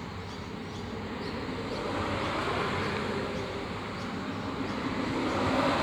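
Steady background noise of road traffic: an even wash that swells a little and eases.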